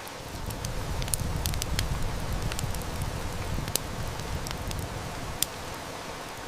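Steady heavy rain with a wood fire crackling in scattered sharp snaps. A low rumble of distant thunder swells about half a second in and fades out by about five seconds.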